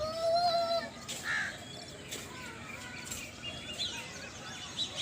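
Birds calling and chirping: a held call in the first second, then scattered short chirps.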